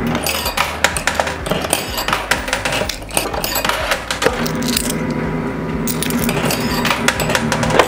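Quarters clinking and dropping in a coin pusher machine, many quick metallic clicks one after another, with music playing underneath.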